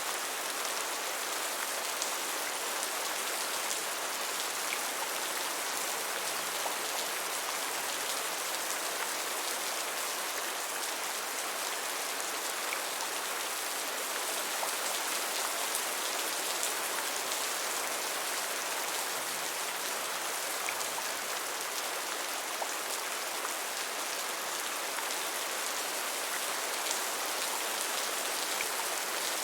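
Steady rain, an even hiss of falling rain with many small drop ticks, unchanging throughout.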